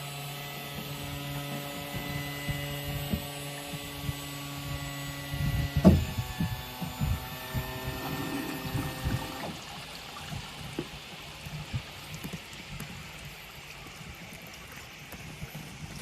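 Electric power trim/tilt motor of a Yamaha four-stroke fuel-injected outboard running with a steady hum, changing pitch with a jolt about six seconds in and stopping about three and a half seconds later.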